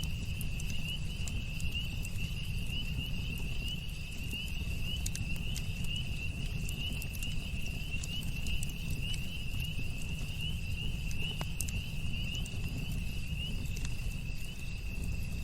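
Campfire crackling with scattered small pops over a low rumble, and a steady high-pitched insect trill.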